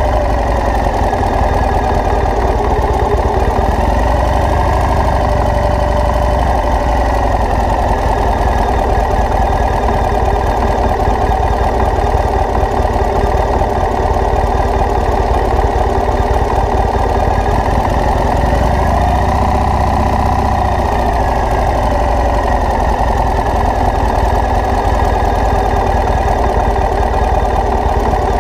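A vehicle engine running steadily, its pitch rising and falling a little a few seconds in and again about two-thirds of the way through.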